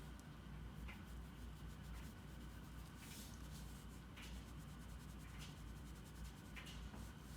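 Drawing tool scratching and rubbing across paper in short, irregular strokes, faint over a steady low hum.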